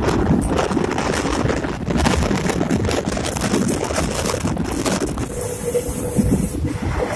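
Passenger train running: a steady rumble and clatter with wind buffeting the microphone.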